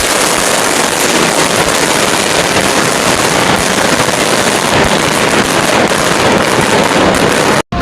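Firecrackers crackling in a rapid, dense, unbroken stream of small pops, starting suddenly and cutting off sharply near the end.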